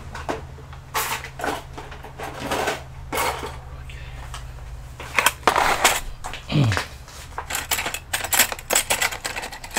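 Irregular clicks, knocks and clatter of hard plastic and metal parts and tools being handled, over a steady low hum that stops about seven seconds in.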